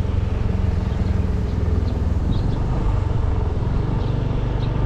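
Motor vehicle engine running steadily at an even speed, with a constant low hum.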